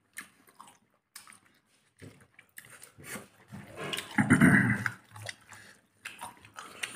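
Close-up chewing and lip smacks of a man eating chicken curry, with a louder mouthful sound about four seconds in.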